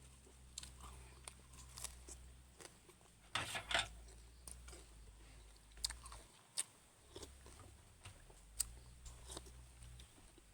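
A person eating noodle soup with raw vegetables: chewing and crunching, with scattered short clicks and a louder noisy burst a little over three seconds in.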